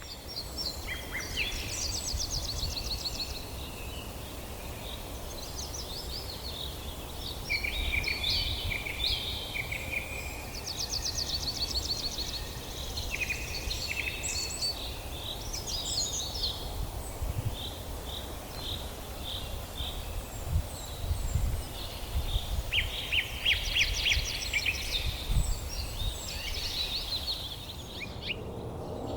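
Several wild birds chirping and singing at once, with quick trills and short whistled notes, over a steady low background rumble.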